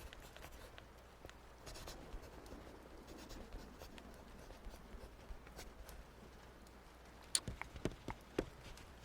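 Pen or pencil writing on paper, a soft continuous scratching, with a few sharper clicks and taps near the end.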